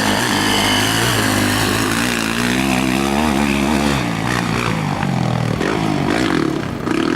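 Motocross bike engines racing, their pitch rising and falling as they rev on and off the throttle. A steady low engine note drops away about four seconds in.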